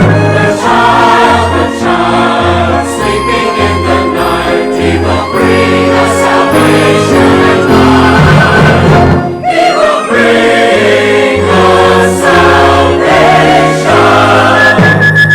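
Church choir singing a Christmas anthem with instrumental accompaniment, held chords moving over a stepping bass line.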